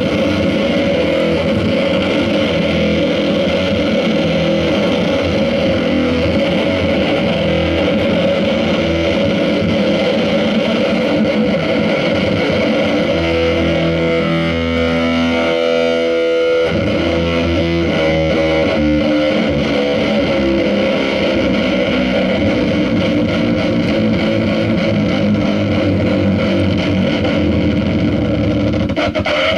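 Loud, distorted instrumental noise music run through effects, a dense, steady wall of sound. A little past the middle it briefly thins to a few held droning tones, then the full wall returns.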